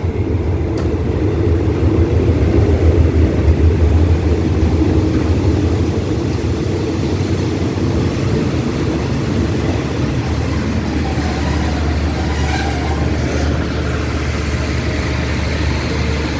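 Diesel locomotive of a passenger express train pulling into a station: a low engine rumble that is loudest a few seconds in as the locomotive passes, then the steadier rolling of the carriages as the train slows. Brief faint squeals come about two-thirds of the way through.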